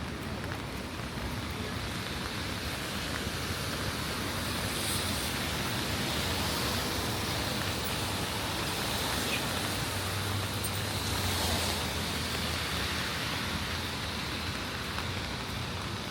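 Steady rain on wet city pavement, with the tyre hiss and low hum of a vehicle passing on the wet street that swells through the middle and fades near the end.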